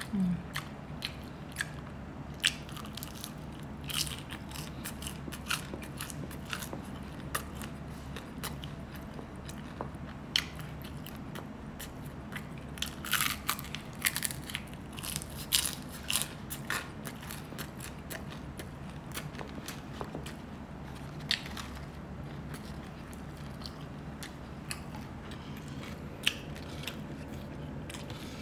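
Close-up eating sounds: biting and chewing buchi, fried sesame-coated rice balls, with scattered crunchy crackles that come thickest about halfway through.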